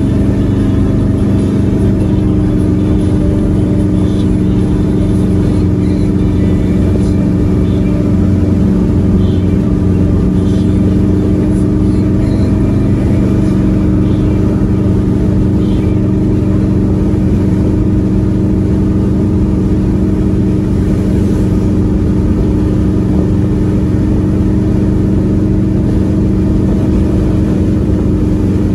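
Classic car's engine and exhaust droning steadily at highway cruising speed, heard from inside the cabin, with road rumble underneath.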